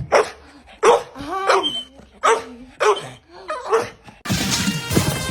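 A dog barking, about six barks spaced under a second apart, then cut off abruptly by music about four seconds in.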